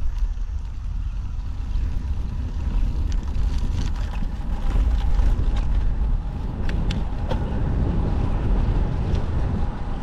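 Wind buffeting the microphone of a camera riding along on a moving bicycle, a steady low rumble with faint ticks from the bike scattered through it.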